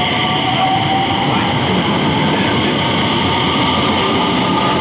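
Electric commuter train moving through the station, its wheels rumbling on the rails while its traction motor whine climbs slowly in pitch as it picks up speed.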